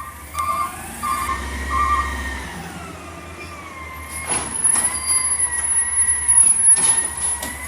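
Recycling truck working: a reversing alarm beeps evenly for the first two seconds over a whining tone that slowly rises and falls. Several sharp clanks follow in the second half.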